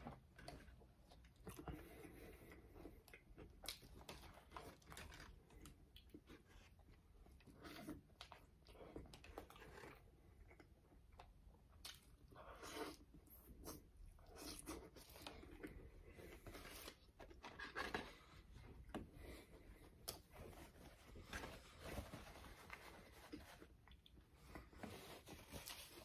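Faint chewing and crunching of a crispy fried burger, with many small crackles and occasional crinkling of its paper wrapper.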